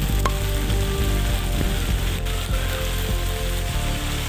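Heavy rain pouring steadily onto a wet street, with background music underneath.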